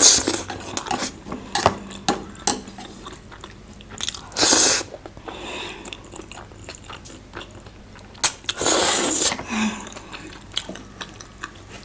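Close-up eating sounds of a large steamed momo being bitten and chewed, with many short mouth clicks and smacks. Longer hissing bursts come about four seconds in and again around eight to nine seconds.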